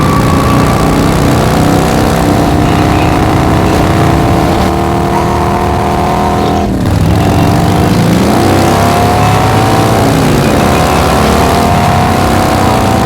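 Car engines accelerating hard, the pitch climbing steadily. About seven seconds in it drops briefly, like a gear change, then climbs again.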